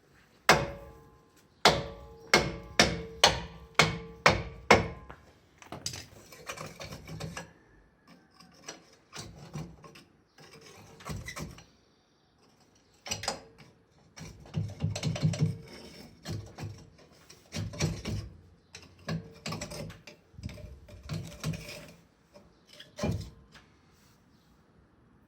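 Hammer tapping on a Fiat 500's cast rear brake drum to free it from the hub: a quick run of about eight ringing metal strikes, then irregular knocks and scraping as the drum is worked loose.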